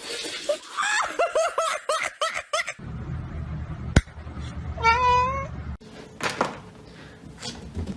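Cat meowing: a quick run of short meows, then after a cut one longer, wavering meow, with a sharp click between them.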